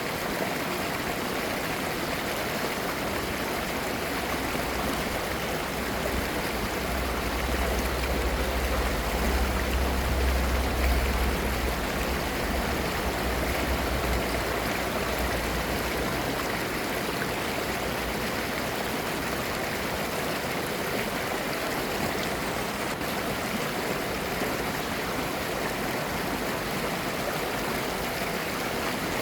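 A clear mountain stream babbling steadily over rocks. A low rumble swells in underneath for several seconds partway through, then fades.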